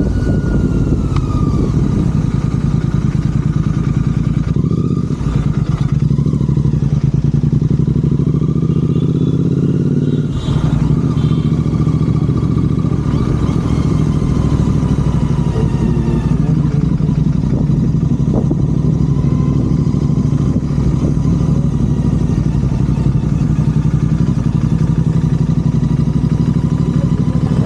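Royal Enfield Continental GT 650's 648 cc parallel-twin engine running through aftermarket Red Rooster exhausts while riding, a loud steady exhaust note with a brief dip about ten seconds in, as on a gear change or closed throttle.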